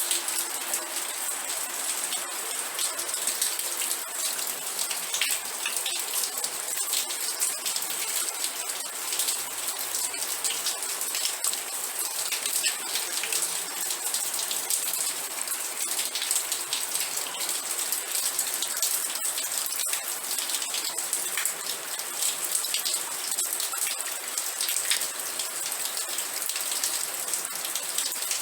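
Steady rain falling, a dense even hiss of many drops pattering on a surface.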